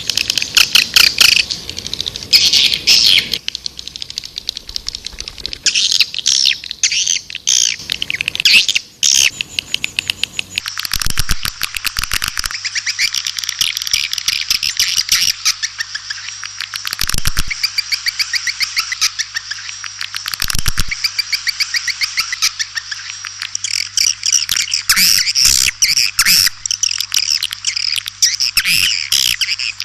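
White-nest swiftlets calling: dense, rapid chittering trills and twitters, the call sound played to lure swiftlets into a nesting house. A low, steady hum joins about eleven seconds in.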